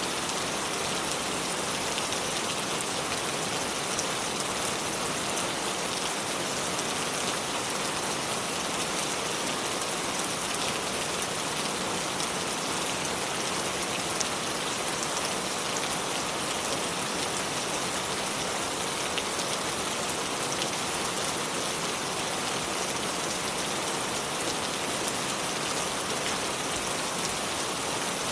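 A steady, even rush of water with dense fine splashing.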